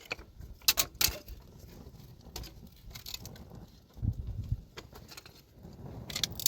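Scattered sharp clacks of rocks being struck during stone-breaking work, several irregular strokes, with a low dull thud and rumble about four seconds in.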